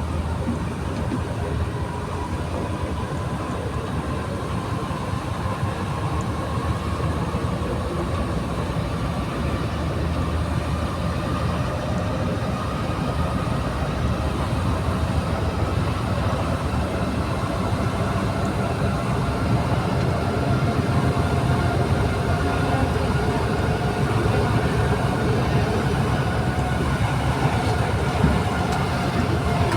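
Santiago Metro NS-93 rubber-tyred train running between stations, heard from inside the car: a steady rumble with a faint motor whine that slowly rises in pitch as the train gathers speed.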